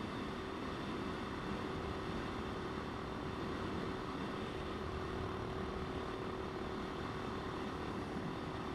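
Motorcycle running at a steady speed, with a steady engine tone under a constant rush of wind and road noise.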